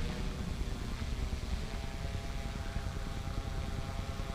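Quadcopter propellers and motors humming as a steady whine of several tones, growing stronger about a second and a half in, over a low rumble.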